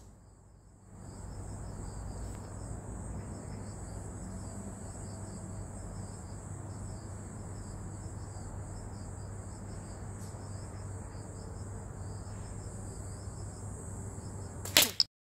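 Steady insect chirping over a low rumble. Near the end, two sharp, loud cracks close together as a slingshot is fired at the target.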